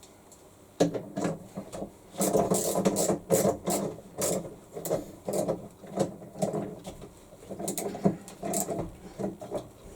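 A 17 mm wrench cranking a gear puller's forcing bolt in quick repeated strokes, with metallic clicks, about two strokes a second from about a second in. It is drawing a washing machine's inner tub off its drive shaft against a very stiff fit.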